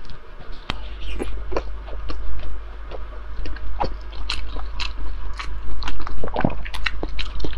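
Close-miked mouth sounds of a person biting into and chewing soft braised Dongpo pork belly, with many small smacks and clicks.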